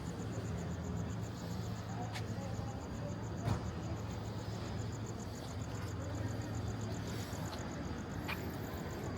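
Steady outdoor night-time ambience: a constant low hum under a fast, even, high-pitched pulsing chirp, with a few faint clicks.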